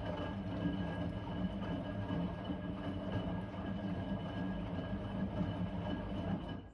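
Blomberg WA391 washing machine running partway through a 90 °C boil-wash cycle: a steady mechanical rumble with a faint constant whine. It cuts off abruptly near the end.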